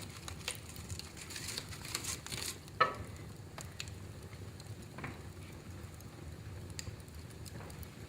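Wood fire crackling in a fireplace: scattered small snaps over a soft hiss, with one sharp loud pop about three seconds in and a smaller one about two seconds later.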